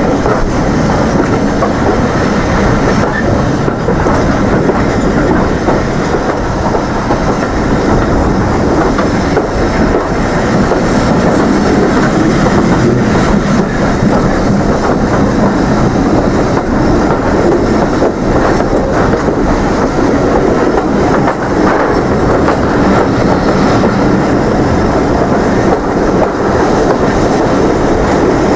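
Heritage railway train running along the track, heard from on board a carriage: a steady rumble from the wheels on the rails, with occasional knocks.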